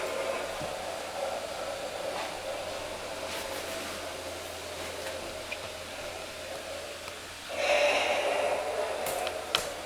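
Electric blower fan of an inflatable Halloween decoration running steadily with a whirring hiss, growing louder about three-quarters of the way through, with a couple of sharp clicks near the end.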